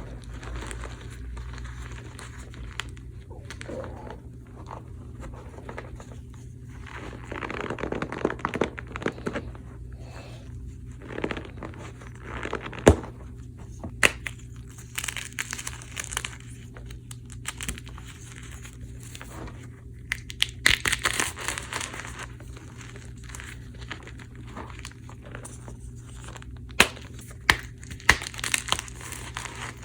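Blocks of gym chalk (magnesium carbonate) topped with cornstarch being crushed, crumbling and crunching in irregular bursts. Several sharp snaps come through as harder pieces break.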